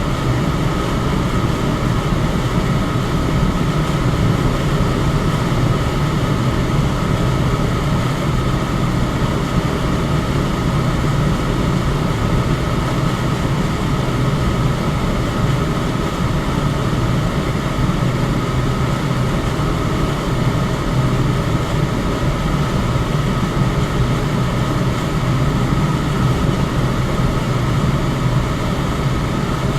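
Electric fan running steadily: an unchanging rush of air with a low hum and a faint steady whine above it.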